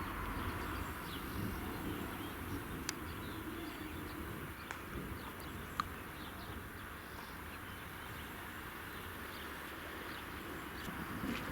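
Outdoor country ambience: a steady low background noise with faint, scattered bird chirps and a couple of sharp clicks.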